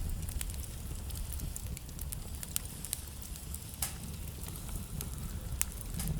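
Wood fire crackling in a fireplace: a low steady rumble of flames under scattered sharp snaps and pops, with two louder pops a little before four seconds and past five and a half seconds in.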